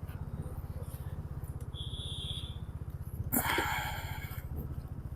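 Motorcycle engine idling with a steady low pulse while stopped in a traffic jam. A vehicle horn sounds briefly about two seconds in, and a louder horn honks for about a second a little past the three-second mark.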